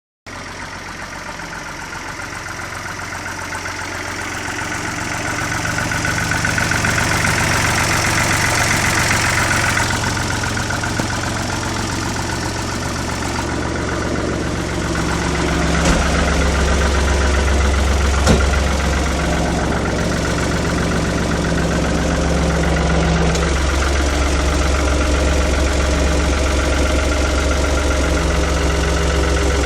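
Engine of a 445 tractor running. It grows louder over the first several seconds, then settles into a steady low running note from about halfway in, with one sharp knock a little past the middle.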